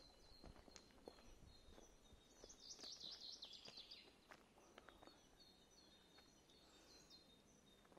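Faint songbirds calling and singing, with one louder, fast trilled phrase about two and a half seconds in that sweeps lower as it ends. Soft footsteps sound underneath.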